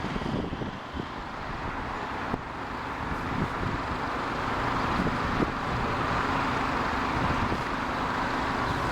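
Jet airliner's engine noise, a steady rushing sound growing gradually louder as the aircraft approaches, with wind gusting on the microphone.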